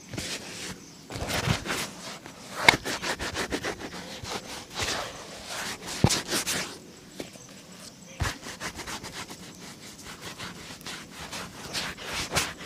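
A shoe being scrubbed during a shoe shine: quick, uneven rubbing and scraping strokes across the shoe, with a sharp tap about 3 seconds in and another about 6 seconds in.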